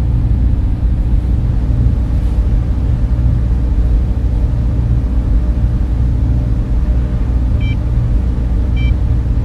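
Steady low hum of a data center's servers and cooling fans. Two short, high tones sound near the end, about a second apart.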